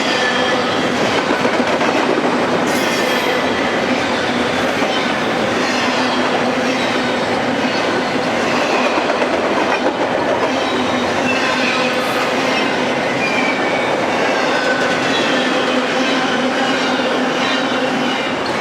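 A freight train's cars rolling past at speed: a steady rumble of steel wheels on rail with clickety-clack, and short faint high squeals that slide down in pitch.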